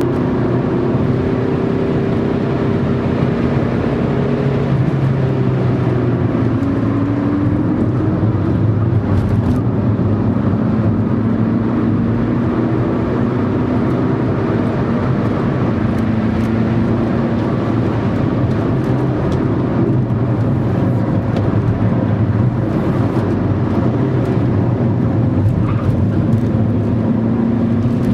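A car engine heard from inside the cabin while the car is driven at track pace. Its note climbs slowly and drops back several times as the gears change, over loud road and wind noise.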